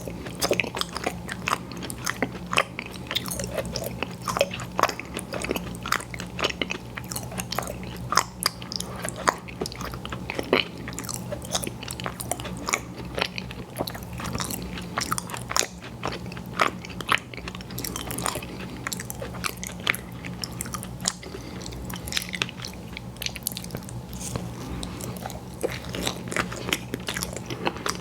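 Close-miked mouth sounds of a person eating dessert pie: many quick, irregular bites and chewing, over a steady low hum.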